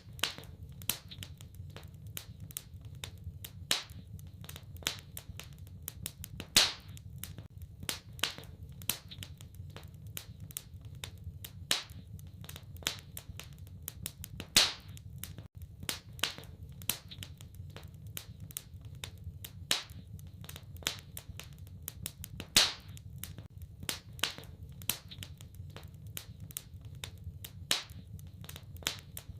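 Wood fire crackling in a fireplace: a steady scatter of small sharp clicks, with louder pops every several seconds, over a low steady rumble.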